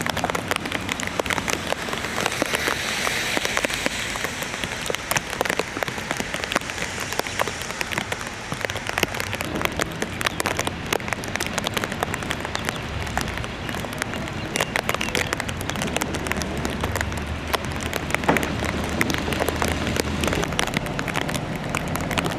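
Rain falling steadily, with many separate sharp drop hits close to the microphone. A low rumble joins for several seconds in the second half.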